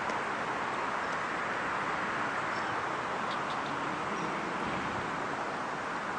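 Steady rushing outdoor background noise, with a few faint high ticks near the middle.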